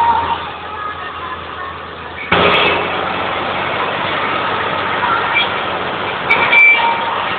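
Tractor engines running in street traffic, a steady drone that suddenly gets louder about two seconds in.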